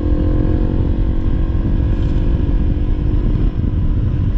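Honda CRF300L's single-cylinder four-stroke engine running under way on a dirt trail, its note easing down a little in the first second or so and then holding steady over a heavy low rumble.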